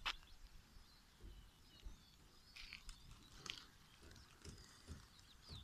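Near silence with faint birdsong: scattered short chirps and thin whistles, and a single click right at the start.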